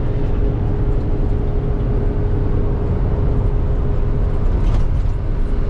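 Minivan driving along a road, heard from inside the cabin: a steady low rumble of engine and road noise with a constant hum.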